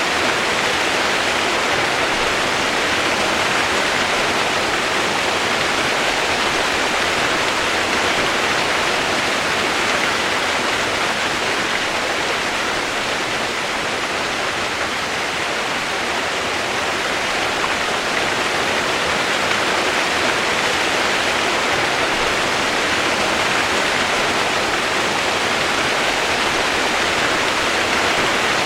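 Steady rain sound played as white noise: an even hiss with no separate drops or changes in level.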